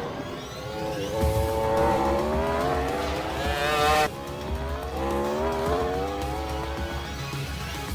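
Superbike engine accelerating hard, its pitch climbing for about three seconds, breaking off sharply about four seconds in, as at a gear change, then climbing again.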